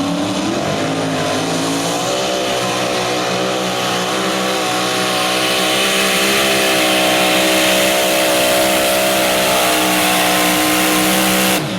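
Modified mini pulling tractor's engine at full throttle on a pull. It revs up over the first second or two, holds at high revs, and breaks off suddenly near the end.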